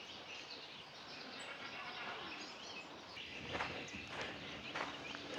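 Faint outdoor ambience with a few bird chirps, then footsteps starting about three seconds in, one step a little more than every half second.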